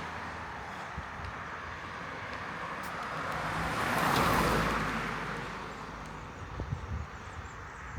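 A road vehicle passing by: its noise swells to a peak about four seconds in, then fades away.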